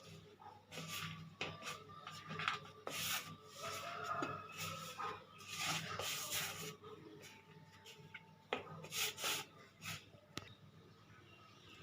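Hands pressing and patting chicken pieces into a bowl of dry flour coating: soft, irregular rustling and light pats.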